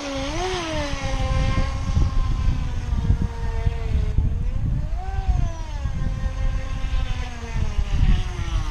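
Top Race TR-1200 RC speed boat's electric motor whining as it runs on the water. The pitch swells with throttle about half a second and about five seconds in, and sags in between, over a rough low rumble of wind on the microphone.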